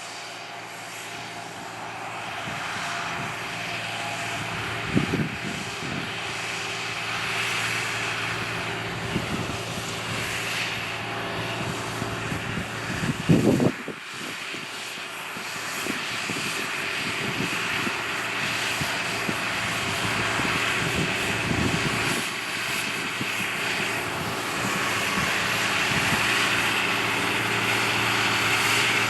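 John Deere 8300 tractor's six-cylinder diesel engine running steadily under load while cultivating, growing gradually louder. A few short low bumps break in, the loudest about halfway through.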